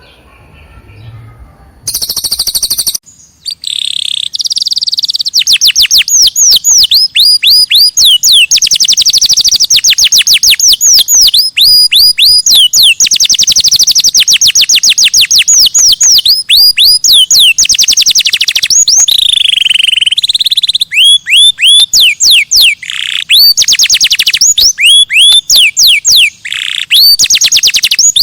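Recorded songbird song of the kind played to tutor contest birds: after a quiet first two seconds, long rapid trills of steep down-slurred whistles, about ten a second, then in the last third a slower run of hooked down-slurred notes, a few a second.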